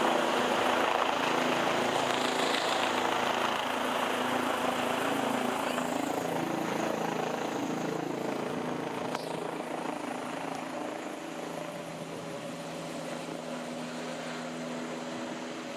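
Rescue helicopter's rotors and engine with rotor wash, a steady running hum that gradually fades.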